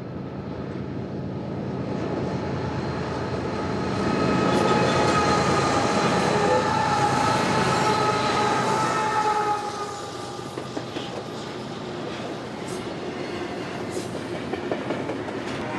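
Freight train rolling past, its wheels squealing on the rails in a high, steady tone that is loudest from about four to nine seconds in, then easing to a quieter steady roll.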